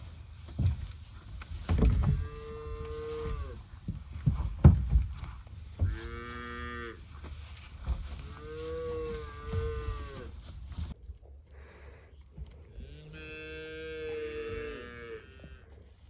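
Calves bawling, four drawn-out calls, with several sharp thuds in the first half, the loudest about five seconds in.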